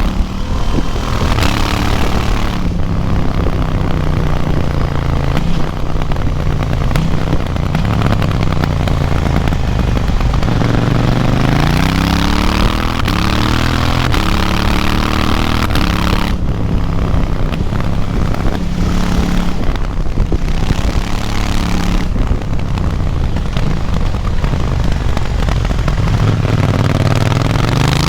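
KTM 790 Duke's parallel-twin engine, A2-restricted to 47.5 hp, ridden hard from onboard: revs climbing and dropping back again and again as it accelerates and changes gear, with wind noise on the microphone.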